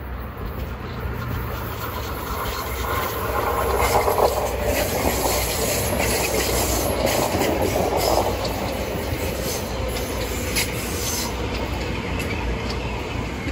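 Metro-North electric multiple-unit commuter train approaching and passing close by. Its wheels click over the rail joints, with a light wheel squeal on the curve. Loudest about four to eight seconds in as the cars go by, then easing off.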